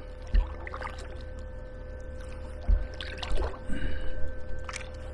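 Water splashing and trickling around a kayak as it is paddled, with a few dull knocks and a steady faint hum underneath.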